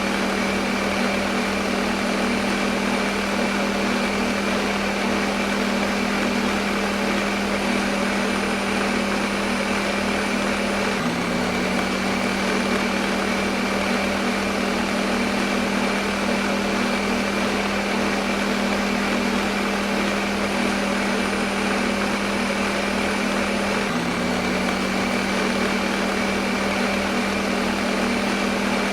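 Electric kitchen blender running continuously: a steady motor hum with an even whirring noise over it.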